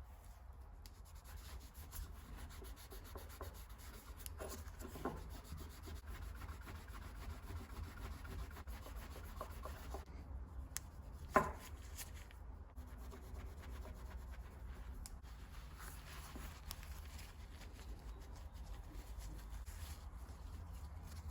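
Hand rubbing on the brass gasket cutter, a steady scratchy friction sound with faint repeated strokes, and one sharp tap about eleven seconds in.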